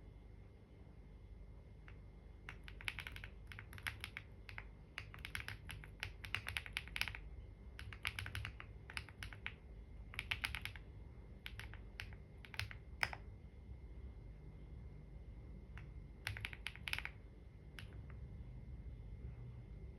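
Typing on a computer keyboard: quick runs of key clicks in short bursts, with pauses between them.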